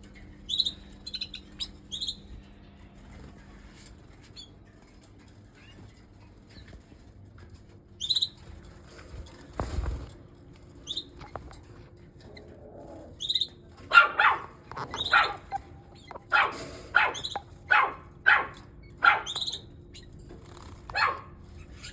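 Canaries giving a few short, high chirps, then a dog barking repeatedly in a steady run of about ten barks through the second half.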